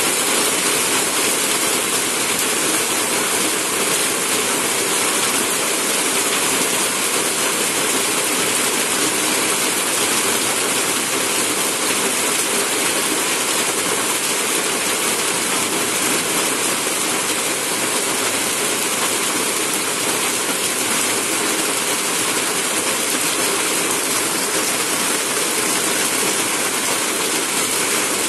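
Heavy rain pouring down steadily, a dense even hiss of rain striking the road and foliage.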